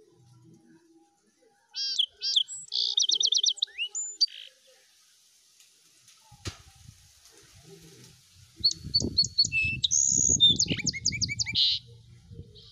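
Bird chirping: two bursts of quick, repeated high chirps and trills, about two seconds in and again near the end. A low rustle runs under the second burst, and there is a single click in between.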